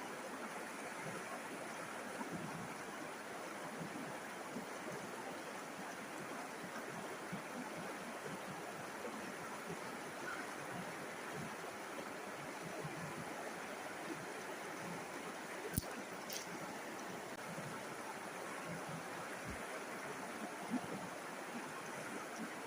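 River water flowing steadily, an even rush with no change. A single sharp click sounds about two-thirds of the way through, and a small knock comes near the end.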